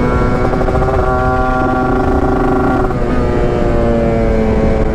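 Yamaha RX-King's two-stroke single running hard under way. Its exhaust note holds steady at first, then falls slowly in pitch over the last couple of seconds as it eases off.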